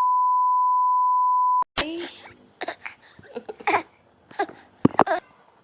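A steady, pure beep tone, like an edited-in censor bleep, lasting about two seconds and cutting off suddenly. Faint small voice sounds and clicks follow.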